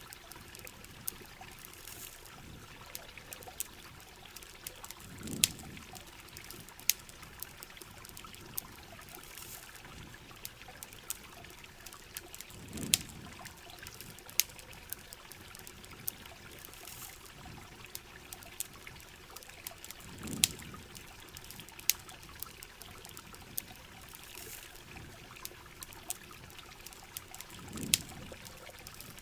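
Steady heavy rain with the sharp, irregular crackle of a campfire. A soft low swell comes back about every seven to eight seconds.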